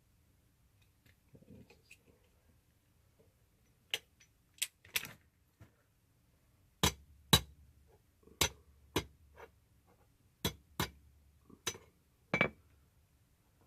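Hammer blows on rebar: a few light taps, then about ten harder, irregular metal-on-metal strikes from about seven seconds in, each a sharp knock with a short ring.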